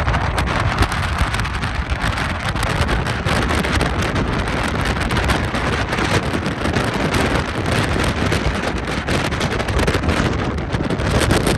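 Strong wind buffeting the microphone: a loud, steady rushing noise that is heaviest in the low rumble.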